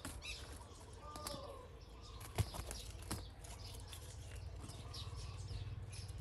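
Small birds chirping on and off in the background, over a steady low hum. There is a sharp tap about two and a half seconds in and a softer one shortly after.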